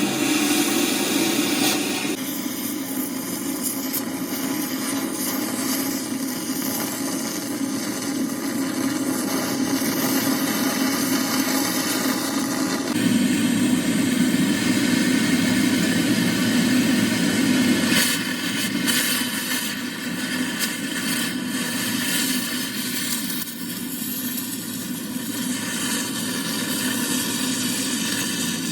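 Machinery running steadily, its sound changing abruptly about two seconds in, again near the middle, and again about two-thirds of the way through.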